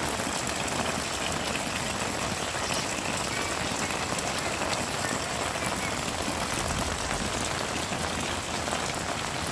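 Heavy rain falling steadily, a dense hiss with scattered drop patter.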